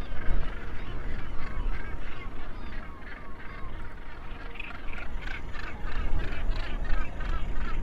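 Seabird colony on the cliffs calling: many short, harsh calls repeated rapidly, growing denser and louder about halfway through, over a steady low rumble.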